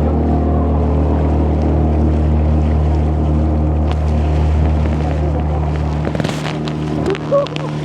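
Sailboat's auxiliary engine running steadily, the boat motoring because there is no wind to sail by. About six seconds in the deepest part of the hum drops away, and a short bump comes near the end.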